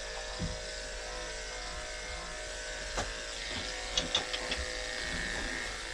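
Andis electric pet clippers running with a steady buzz while shaving a cat's matted coat, with a few light clicks about three and four seconds in.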